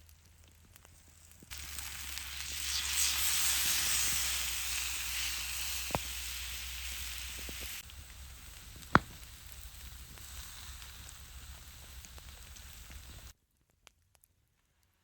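Food frying over the fire with a loud sizzle that starts suddenly, drops to a weaker sizzle about eight seconds in and cuts off about two seconds before the end. A sharp tap about nine seconds in is the loudest single sound.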